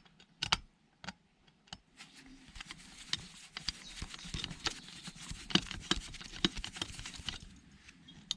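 Small metal parts being handled and worked on during a teardown of an electronic device: scattered sharp clicks and light rattles, with a denser stretch of scraping and clicking through the middle.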